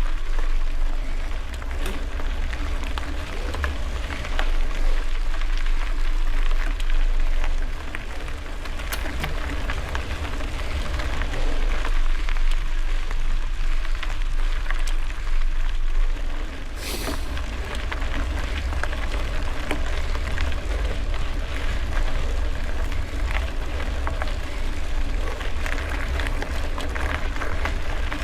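Wind rumbling on the microphone while riding a gravel bike, with the tyres rolling over loose gravel in a steady crackle. A brief high hiss comes about seventeen seconds in.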